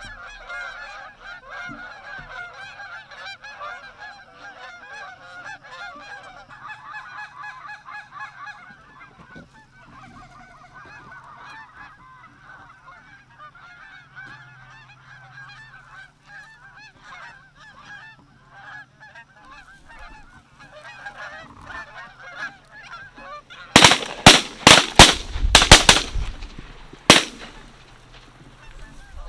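A flock of geese honking, many calls overlapping, for most of the stretch. Near the end a rapid volley of about eight shotgun blasts breaks out over some three seconds, far louder than the calling.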